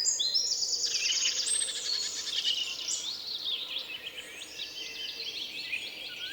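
Several small songbirds chirping and trilling together, thick and overlapping for the first few seconds, then thinning to scattered short chirps.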